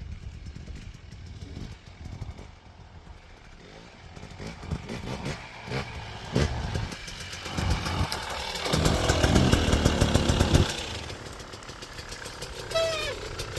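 Dirt bike engine revving, building up and loudest for about two seconds just past the middle, then dropping back to a lower running note.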